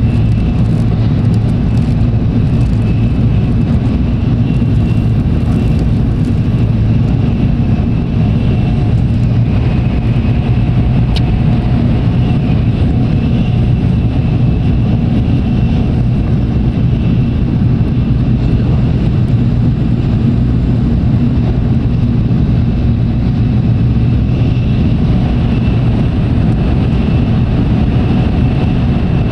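Steady running noise of an N700-series Tokaido Shinkansen train cruising at speed, a low rumble and hum heard inside the passenger car.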